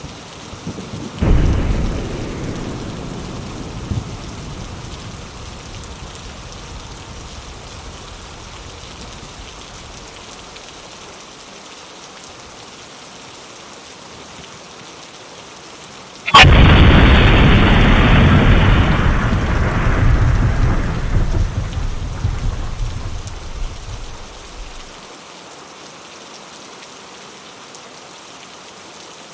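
Steady rain with thunder: a rumble about a second in, then a loud, sharp thunderclap about halfway through that rolls off slowly over several seconds.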